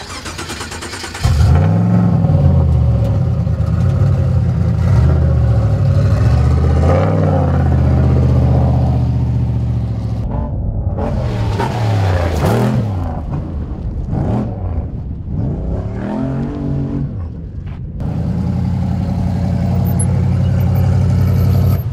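Off-road race truck's engine revving hard and repeatedly rising and falling in pitch as it is driven around a dirt track, with the throttle lifted briefly a couple of times.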